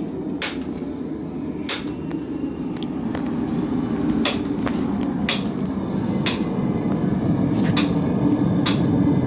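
Blacksmith's hammer striking metal on an anvil: about eight single blows, roughly a second apart, over a steady low rumble.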